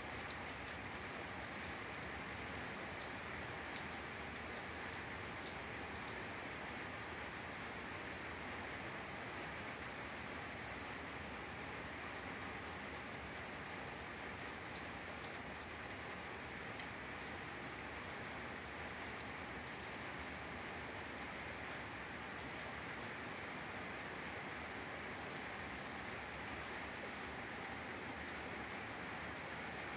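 Steady rain falling, with a few sharper drop taps now and then.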